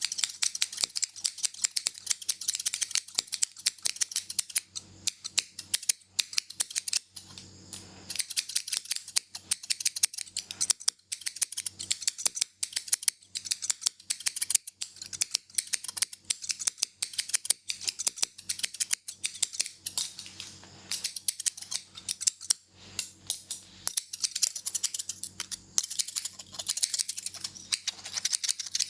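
Hair-cutting scissors snipping rapidly close to the microphone: quick crisp clicks in runs of many snips, with brief pauses between runs.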